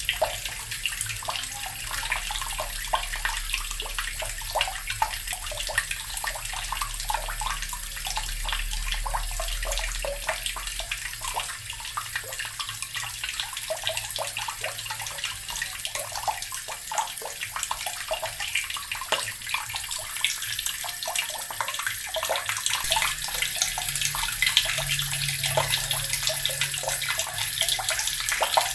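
Water running steadily from a tap and splashing into a basin, with constant fine spattering.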